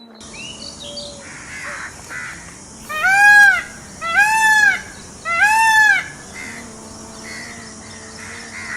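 Peacock calling three times in quick succession, loud arched cries about a second apart.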